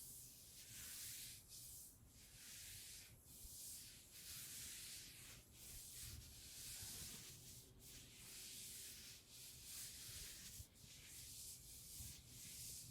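Soft, hissy rubbing or brushing strokes, repeated roughly once a second with short pauses between them, played as an ASMR trigger.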